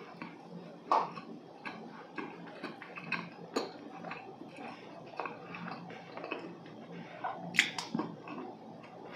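Close-miked chewing of a dense, rather dry walnut cake (hodu gwaja), with soft moist mouth noises and frequent small clicks. A few sharper clicks stand out, about a second in, around the middle, and near the end.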